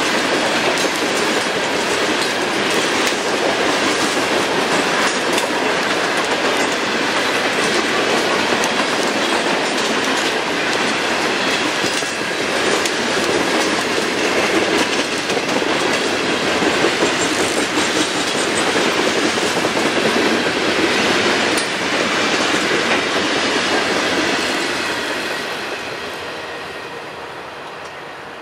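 Norfolk Southern freight train's hopper cars rolling past close by, a dense steady rumble with the wheels clicking over rail joints. The sound fades away over the last few seconds as the end of the train passes.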